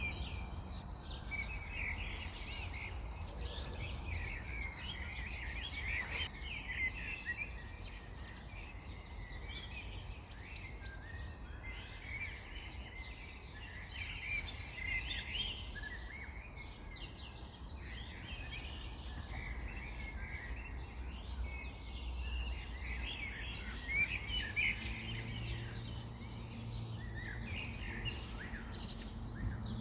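Several small birds chirping and singing with short, overlapping calls, over a low rumble of background noise. About 25 seconds in, a steady low hum joins.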